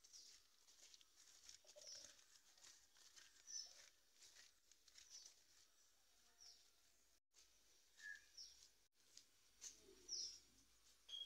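A bird calling faintly: short high chirps that fall in pitch, repeated about every two seconds.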